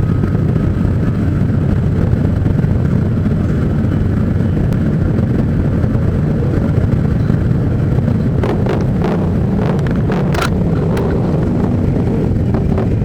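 Motorcycle engines running together in a parade, a steady loud low rumble with wind on the microphone. A few short, sharper sounds rise over it about eight to eleven seconds in.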